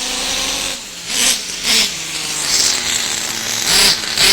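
Small nitro engine of an RC truck running, with a steady hum and about four sharp bursts of revving.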